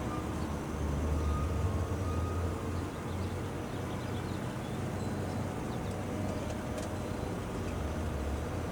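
Low, steady outdoor rumble that swells about a second in and again near the end, with a few faint short high chirps in the middle.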